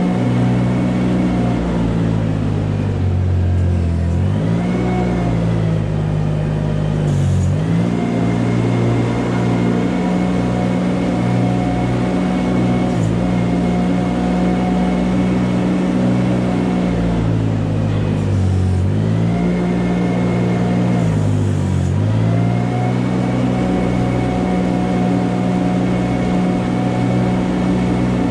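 A farm machine's engine running steadily. Its speed dips and climbs back a few seconds in, and again twice a little past the middle, as if it were briefly loaded.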